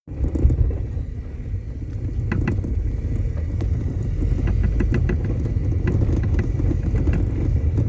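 An old Toyota Corona running, a steady low rumble with a few short, sharp clicks scattered through it.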